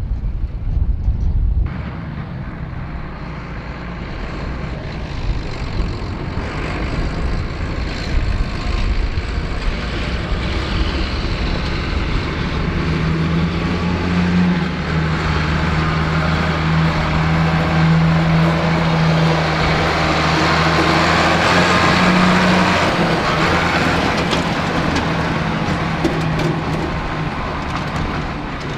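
Ford 8630 tractor's diesel engine running with a forage harvester at work, a steady engine hum. It grows louder toward the middle and eases off near the end.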